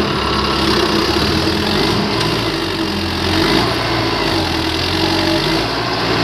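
Tractor diesel engine running steadily at low revs, its note shifting slightly as it works.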